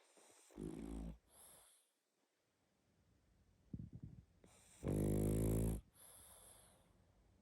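A pug snoring heavily in its sleep: two snores, one about a second in and a much louder one about five seconds in. Each is followed by a high whistling breath.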